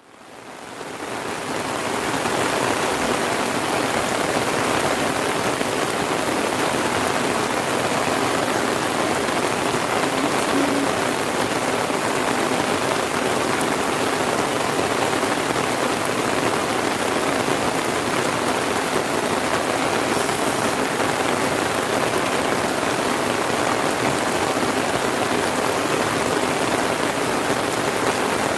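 Heavy rain falling steadily, fading in over the first two seconds.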